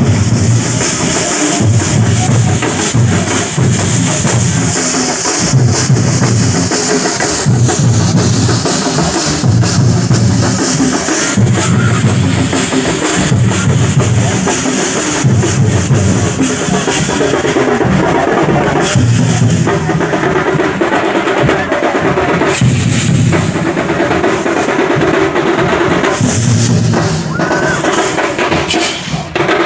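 Festival drum troupe playing a loud, steady rhythm with repeated deep booming drum beats and bright metallic clashing on top.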